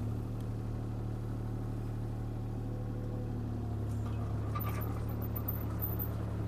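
CAT 303C CR mini excavator's diesel engine running at a steady pitch, a constant hum, with a few faint clicks and rattles from the machine about two-thirds of the way through.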